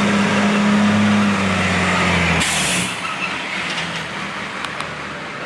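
Heavy police truck's engine running, then a short, sharp hiss of its air brakes about two and a half seconds in, after which the engine sound drops.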